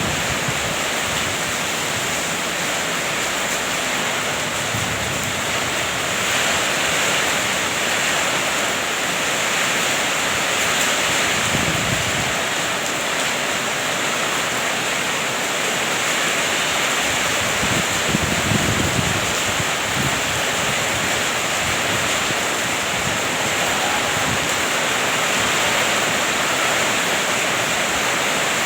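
Heavy rain pouring down steadily, with wind, and a couple of brief low rumbles about twelve and eighteen seconds in.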